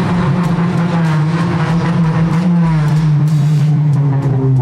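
A car engine running loud and close, its note holding steady, then sliding steadily down in pitch over the last two seconds.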